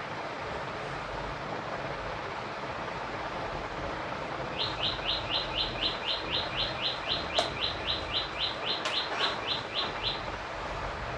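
A bird calling: a rapid string of short, high chirps, about four a second, starting about four and a half seconds in and stopping about a second before the end, over a steady hiss. Two sharp clicks fall among the chirps.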